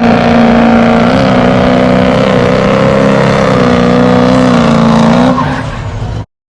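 Car engine held at high, steady revs, its pitch wavering slightly over a hiss of noise. It eases off a little after five seconds and cuts off abruptly about a second later.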